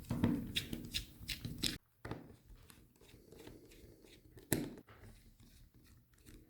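Small clicks and scratchy ticks of a precision screwdriver working tiny screws back into a tablet's case. There is a quick run of clicks in the first two seconds, then fainter ticks, and one sharper click about four and a half seconds in.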